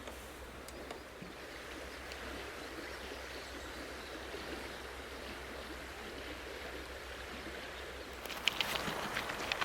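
A steady, even rushing hiss of outdoor ambience, with a cluster of sharp clicks and knocks starting near the end.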